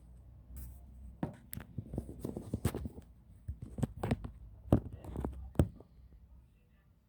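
Irregular run of sharp clicks and taps from hands and tools working on an HP Pavilion 15 laptop during disassembly, the loudest two strikes near the end.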